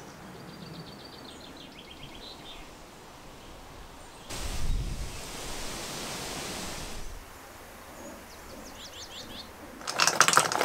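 Quiet countryside ambience with a small bird's rapid, ticking trill twice. A few seconds of rushing wind noise come in the middle. Near the end comes a loud clatter of nuts tumbling into a wooden bowl.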